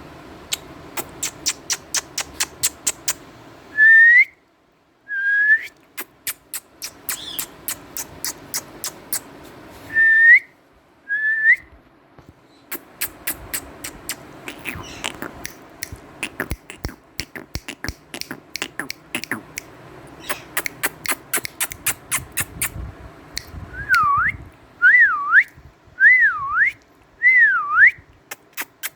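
Indian ringneck parrot whistling and clicking: runs of quick sharp clicks, two pairs of short rising whistles (about four seconds in and again about ten seconds in), and near the end four wavering whistles that dip and rise again.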